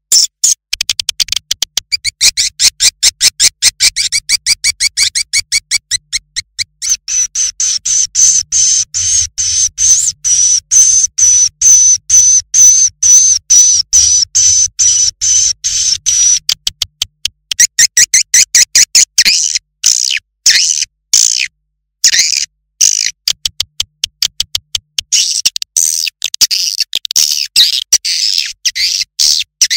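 Swiftlet lure call playback: a fast, even run of high-pitched twittering chirps of edible-nest swiftlets, several a second, used to draw swiftlets into a nesting house. Over the middle stretch the chirps blend into a steady high buzzing twitter over a faint low hum.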